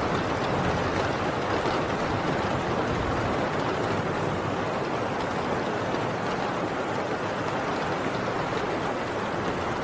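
Heavy rain falling steadily on a tin roof, an even, unbroken downpour.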